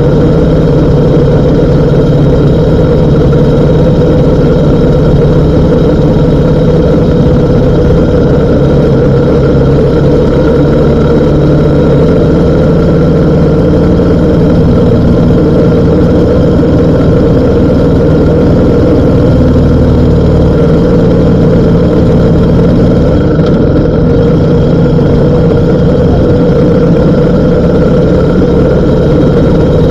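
BMW R1250 GS Adventure's boxer twin engine running steadily at an even pitch.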